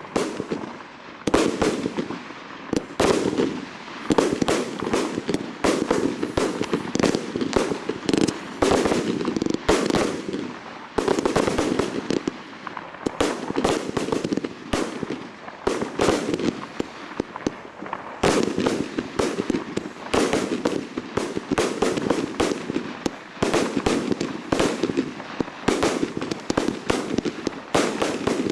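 Fireworks display: a continuous barrage of sharp bursts and reports, several a second, with no pause.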